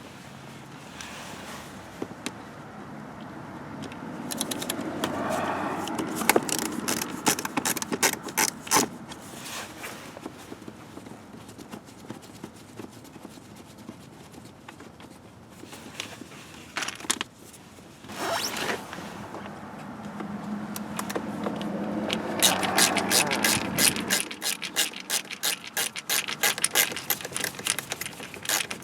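Clicking and scraping of hand tools and parts being worked on during a car repair, with runs of rapid clicks in two stretches.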